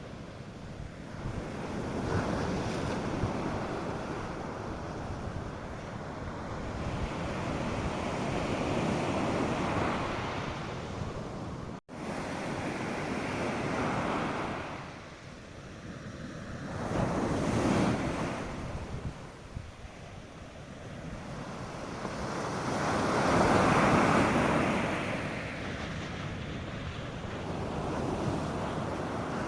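North Sea surf breaking on the beach, the wash of the waves swelling and ebbing every few seconds, with light wind on the microphone. A split-second gap in the sound about twelve seconds in.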